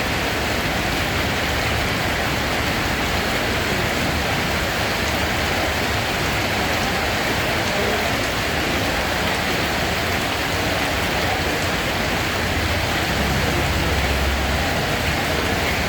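Steady rainfall, an even hiss of rain on a surface with no letup, and a low rumble that swells briefly near the end.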